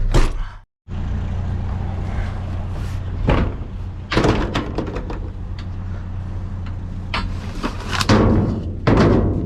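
A vehicle running steadily, heard from inside the cab, with several thumps and knocks over the drive. A brief dead gap just under a second in.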